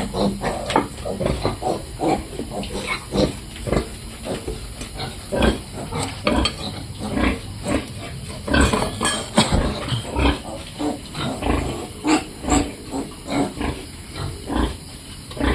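Piglets feeding, grunting in a dense stream of short, irregular noises.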